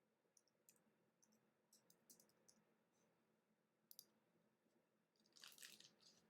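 Near silence with faint scattered clicks and, about five and a half seconds in, a brief crinkly rustle: trading cards being handled and sorted.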